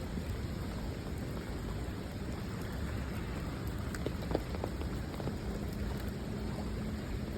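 Steady rain falling, an even hiss over a constant low rumble, with a few faint drop ticks a little past four seconds in.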